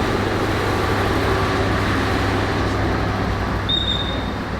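Railway platform ambience: steady noise with a low hum beside a standing intercity train. A brief high, thin tone sounds once near the end.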